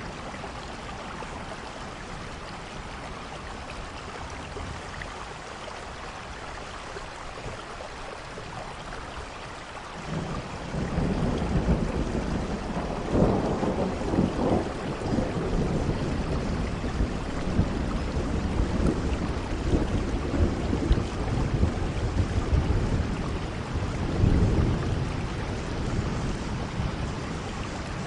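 Steady rain falling, joined about ten seconds in by a low rumble of thunder that swells twice, once around the middle and once near the end.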